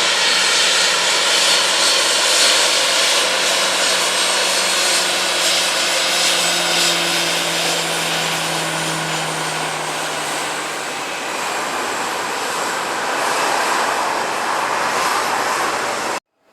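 Airliner engines passing close by: a loud, steady roar with tones that slide slowly downward as the aircraft goes past. The sound cuts off abruptly near the end.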